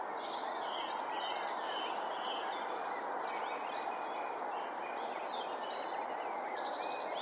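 Small birds chirping and trilling over a steady outdoor hiss.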